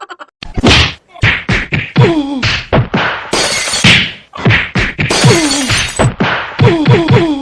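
A rapid string of cartoon comedy whack and smack hit effects, well over a dozen. Several are followed by a short falling-pitch tone, and twice the hits give way to a longer crash-like burst of noise.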